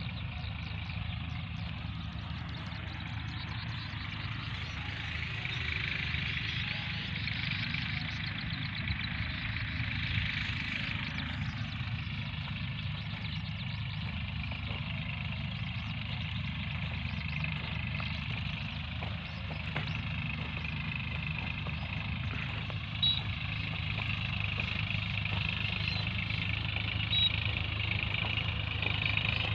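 Swaraj 960 FE tractor's diesel engine running steadily, with two short clicks in the second half.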